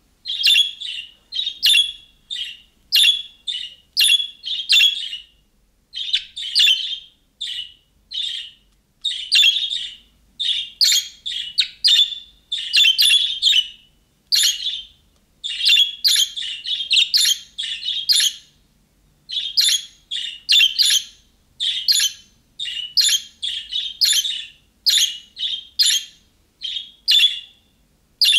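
Budgerigar (budgie) chirping and chattering: a rapid run of short, high calls, several a second, with brief pauses between bursts.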